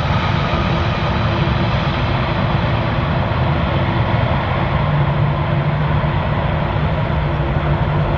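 Jet airliner engines running: a steady, loud noise with a low hum under it, the high hiss slowly fading over the last few seconds.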